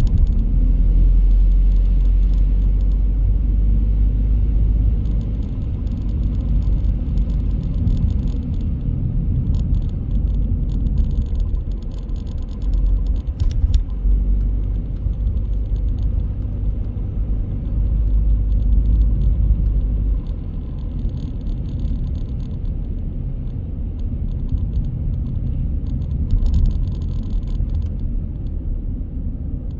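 Car driving on city streets: a steady low rumble of engine and road noise, with a few short stretches of higher hiss and a single faint click about halfway through.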